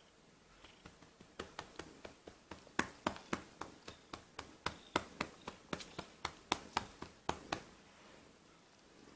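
A hand patting a cat's rump over and over, about three quick pats a second, starting softly and stopping near the end.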